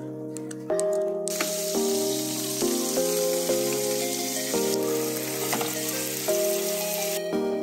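Food sizzling in a hot pan, starting abruptly about a second in and cutting off near the end, over background music.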